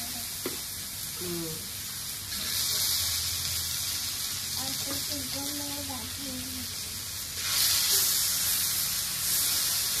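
Slices of rolled arbi (colocasia) leaf frying in hot oil in a pan, a steady sizzle. It grows louder about two seconds in and again near the end.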